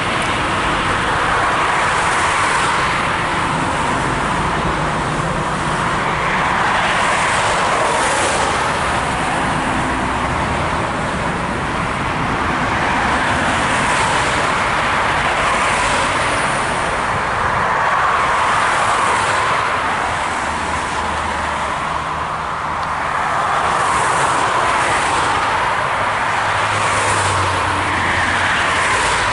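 Airbus A380's four jet engines at takeoff power: a loud, steady rushing roar that swells and eases in slow waves.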